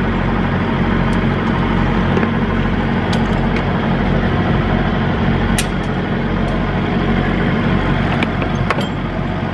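A diesel semi-truck engine idling steadily, with a few sharp clicks and taps over it.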